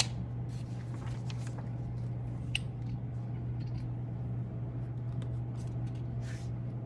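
Steady low hum with faint scattered clicks and short rustles of something being handled, such as a book.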